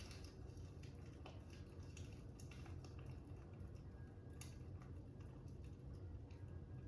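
Faint fire crackling: irregular small pops and snaps over a low steady rumble.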